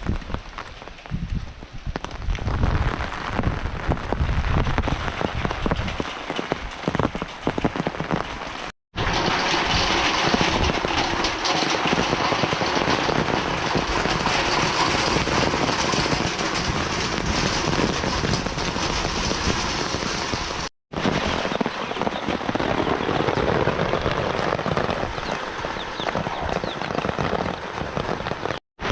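Steady rain falling, an even hiss broken by abrupt edit cuts about nine and twenty-one seconds in. The first part also carries a low rumble under the rain.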